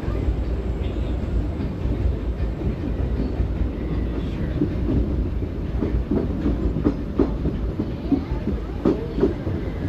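Narrow-gauge steam train running, heard from aboard a passenger car: a steady rumble of wheels on the rails with clickety-clack over the rail joints, the knocks coming thicker and louder in the second half.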